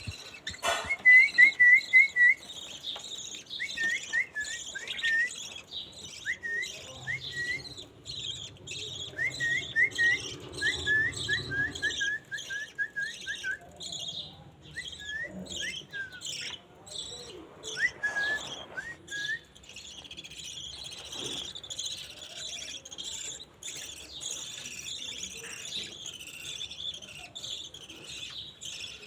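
Budgerigars chirping and chattering: a steady, busy chatter throughout, with runs of short, rising chirps for the first twenty seconds or so.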